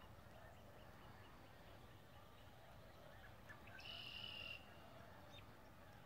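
Faint woodland ambience with distant bird calls: a row of faint short high notes, then one buzzy call lasting under a second about two-thirds of the way through.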